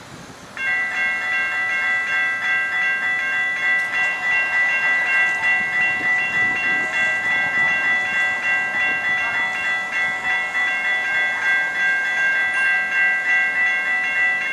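Locomotive air horn of an approaching SunRail commuter train, sounding one long continuous blast of a multi-note chord that starts suddenly and cuts off about fourteen seconds later.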